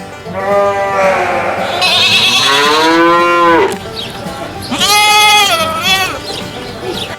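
Cattle mooing: two long calls, the first rising and then falling over about three seconds, the second shorter and higher-pitched about five seconds in.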